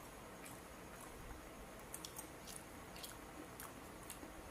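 A person chewing a mouthful of lettuce wrapped around grilled barbecue meat, with faint, soft crunching and mouth clicks at irregular moments.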